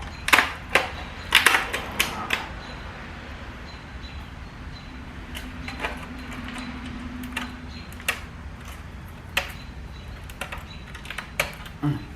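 Irregular sharp clicks and light knocks of hard parts being handled, a cluster in the first couple of seconds and then sparse, over a steady low hum.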